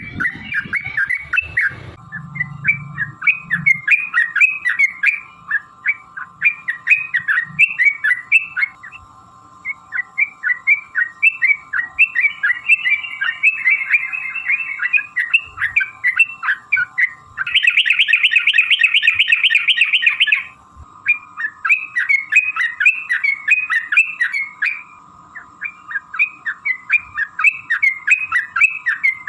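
Yellow-vented bulbuls (trucukan) singing, a quick chatter of short chirping notes repeated many times a second, broken a little past the middle by a loud, dense rapid trill about three seconds long.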